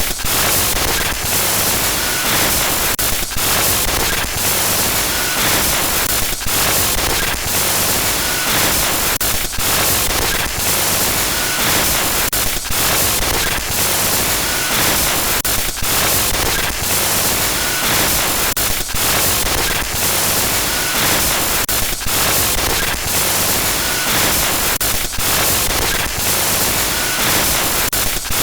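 Loud glitch static noise used as a horror sound effect: a harsh, steady hiss with a low buzz beneath it, broken again and again by brief dropouts and crackles.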